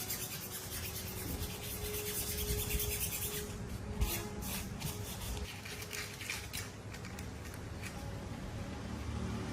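Hand-work rubbing in quick, even strokes for about three seconds, then slower, irregular strokes.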